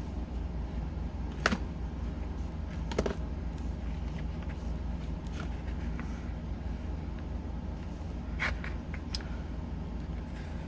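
Small wooden blocks and craft pieces being handled and set in place, giving a few light clicks and taps over a steady low hum. The sharpest come about a second and a half in, at three seconds, and at eight and a half seconds.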